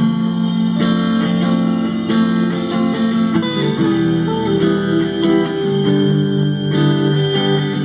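Guitar music: plucked guitar notes and chords, changing every second or so.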